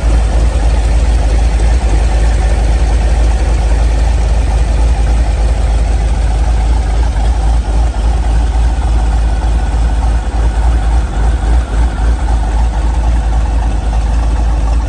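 LS3 6.2-litre V8 swapped into a 2005 Porsche 911 Carrera S, idling steadily while it warms up after a cold start, with no revving.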